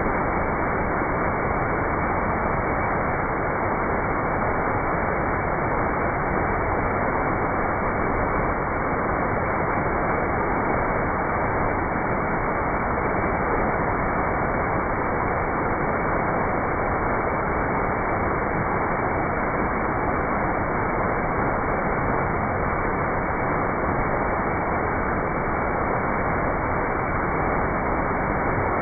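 Waterfall: falling water rushing in a steady, unbroken hiss that never changes in level.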